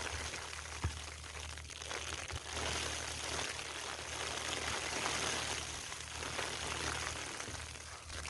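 Snowstorm wind rushing and buffeting the microphone: a steady hiss with an uneven low rumble, and a single light knock about a second in.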